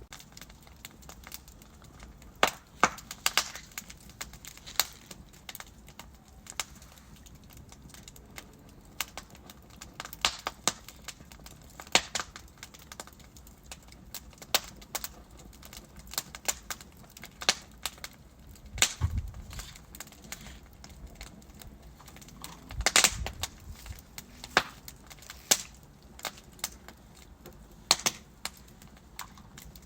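Wood fire burning in a fireplace: irregular sharp crackles and pops over a faint steady hiss, with a few louder pops, the biggest about two thirds of the way through.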